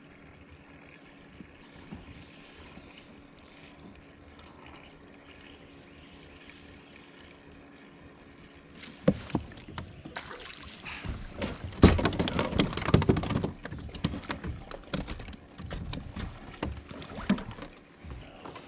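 Water splashing and knocking against a kayak, in an irregular cluster beginning about halfway through and loudest a few seconds later, after a faint, steady first half.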